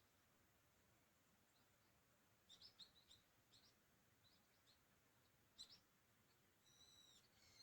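Faint, quiet outdoor ambience with small birds chirping: a few short high chirps a third of the way in, a sharper one a little past the middle, then a longer, steadier high call starting near the end.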